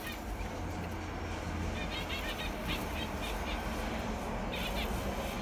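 Small birds chirping in short clusters of quick high notes, about two seconds in, again around three seconds, and briefly near the end, over a steady low rumble on the microphone.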